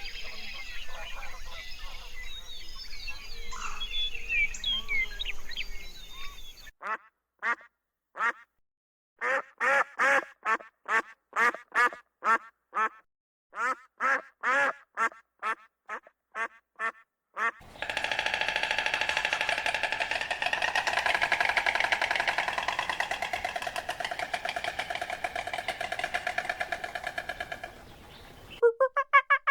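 Farm birds calling. Small birds chirp over outdoor ambience at first. From about seven seconds in come runs of short, harsh calls with brief gaps between them, and from about eighteen seconds a dense, continuous chorus of many calls at once.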